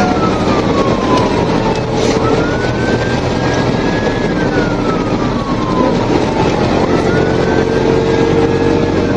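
Police siren in a slow wail, rising and falling about twice, over the steady hum of a vehicle engine and road noise.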